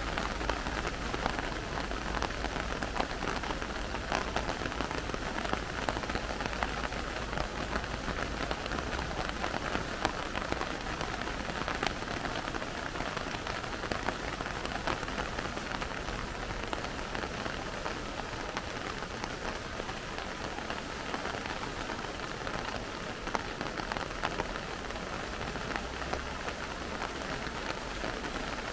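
Steady rain and the rush of a muddy river in flood after heavy rain, one even rushing noise with scattered drop ticks.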